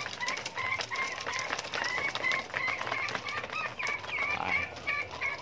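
A bird chirping rapidly and repeatedly in short high notes, several a second, over many light clicks of pigeons pecking grain from a plastic feeder.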